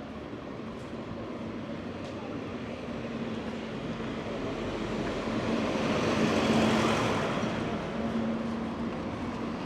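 A motor vehicle passing along the street: engine and tyre noise swells to its loudest about six to seven seconds in, then eases off, over a steady low hum of traffic.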